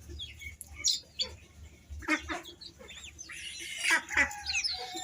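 Several captive farm birds calling, many short calls at different pitches overlapping, with the loudest bursts about two and four seconds in.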